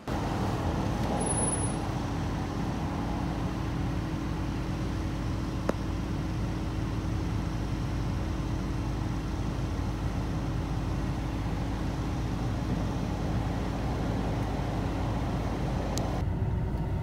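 A motor vehicle's engine running steadily, a continuous rumble with a constant low hum. The higher hiss drops away about a second before the end.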